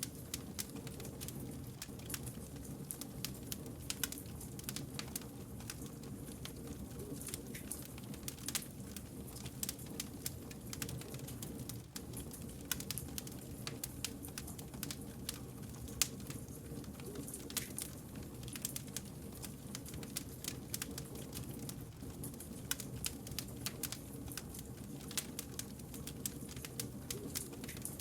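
Wood campfire crackling: frequent sharp pops and snaps over a steady low rumble of the burning logs.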